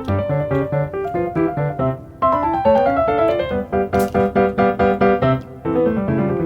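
Background piano music: quick repeated chords, with a falling run of notes a little over two seconds in.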